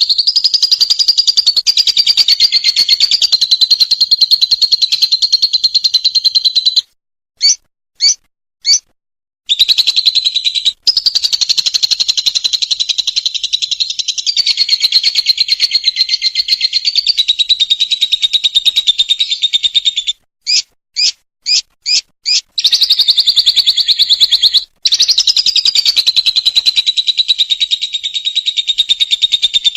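A lovebird's long, rapid, rattling chatter trill (the "ngekek" call), held for several seconds at a stretch. Twice it breaks off into a few short, separate chirps before it starts up again: three chirps the first time and five the second.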